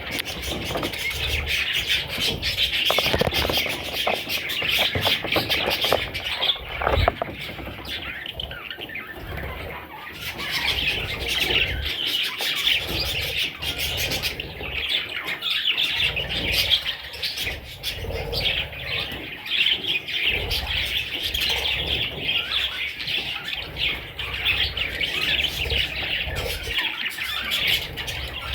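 Budgerigars chattering: a dense, continuous stream of short, high chirps with no pause, over a low rumble.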